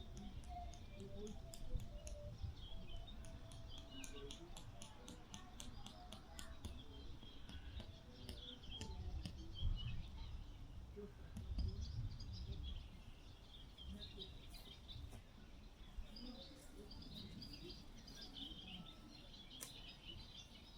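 Small birds chirping and trilling in short scattered calls, over a low, uneven rumble of wind on the microphone.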